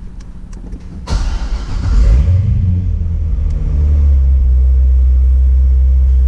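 Chevrolet Corvette ZR1's supercharged 6.2-litre LS9 V8 being started. It catches with a sudden loud burst about a second in, flares briefly in revs, then settles into a steady cold idle, heard from inside the cabin.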